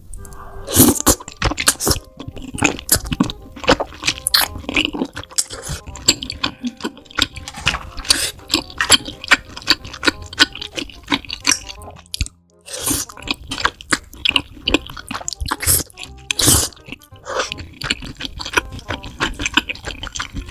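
Close-miked ASMR eating sounds of a person chewing chewy rice cakes (tteokbokki) in thick sauce: dense wet smacks, mouth clicks and sticky chewing, with a brief pause about twelve seconds in.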